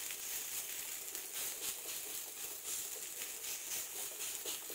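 Faint, steady sizzling of a maize-flour and greens flatbread cooking on an oiled griddle while it is pressed flat by hand.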